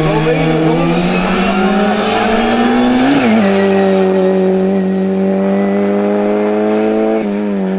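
Racing hatchback's engine pulling hard under acceleration, its note climbing as the revs rise. The pitch drops at a gear change about three seconds in, climbs slowly again, and drops at another gear change near the end.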